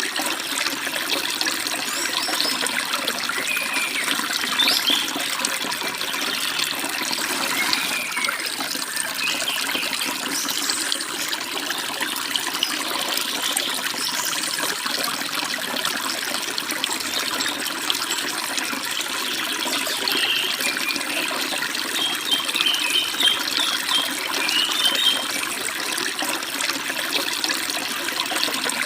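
Steady rushing and babbling of a forest stream, with birds chirping over it now and then and a quick run of chirps about three quarters of the way through.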